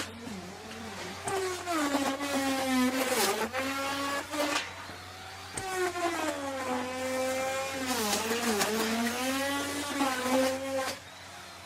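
Electric wood router running and cutting into wood, its motor whine dipping in pitch each time the bit bites into the cut and recovering as it eases off. The cutting stops near the end.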